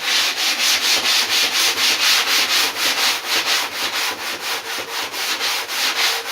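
Hand sanding of cured poured foam on a surfboard repair: sandpaper on a sanding block is rubbed back and forth quickly, in even scraping strokes of about four to five a second.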